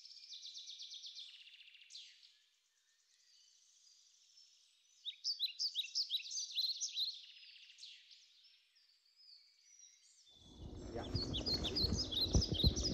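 Small birds chirping in quick series of high, short calls that come and go. About ten seconds in, a louder rushing noise with a low rumble starts underneath.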